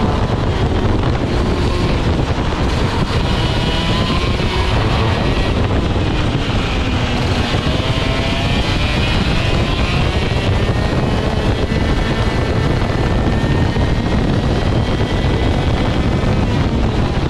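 Rok GP 125cc two-stroke kart engine running on track, its pitch rising and falling again and again as it accelerates and slows through corners. Heavy wind buffeting on the on-board microphone runs under it.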